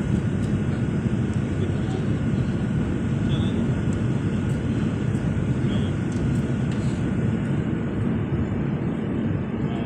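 Airliner cabin noise heard from inside the cabin: a steady, low rushing of the jet engines and airflow, with a faint steady whine above it.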